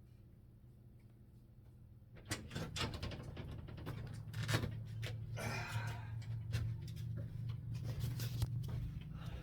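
A run of sharp clicks and knocks starting about two seconds in, with a rustle in the middle, over a steady low hum.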